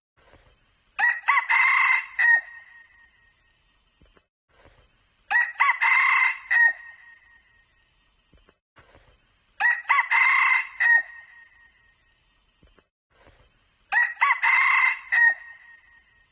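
A red junglefowl rooster crowing four times, about four seconds apart, each crow short and alike in shape.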